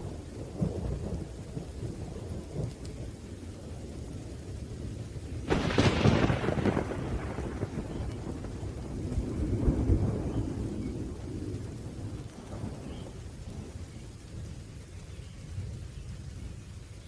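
Thunderstorm: rolling thunder rumbling over steady rain, with a sharp crack of thunder about five and a half seconds in and a second swell of rumble near the middle.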